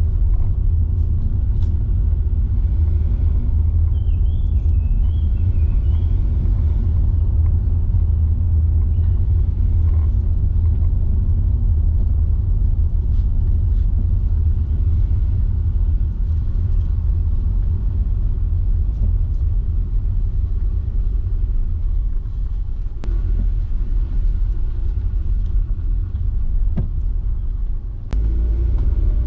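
Car driving along a road, a steady low rumble of engine and road noise, with faint chirps about four to six seconds in and a couple of sharp clicks near the end.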